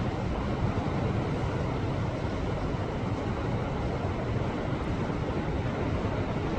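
Sea waves surging against a rocky shore: a steady rush of surf with a deep rumble underneath.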